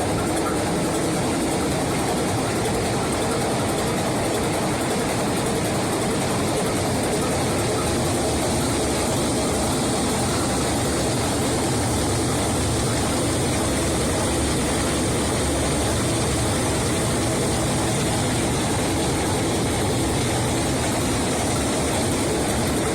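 Six-cylinder stationary diesel engine with mechanical fuel injection, running steadily.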